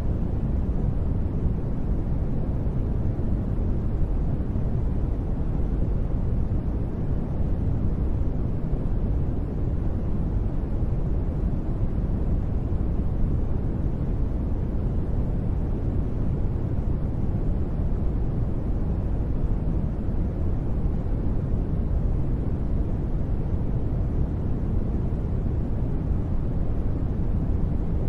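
Steady, unchanging sleep-aid white noise, a deep rushing hiss with most of its weight in the low range and little at the top.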